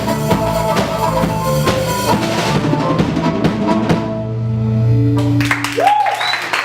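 Live band with a drum kit playing the final bars of a song, ending on a held low note about five seconds in; audience applause starts just after the music stops.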